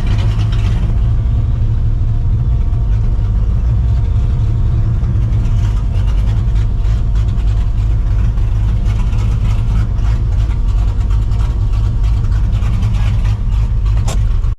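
Straight-piped, Procharged Mustang GT V8 running steadily at low revs: a loud, deep exhaust rumble with no clear revving.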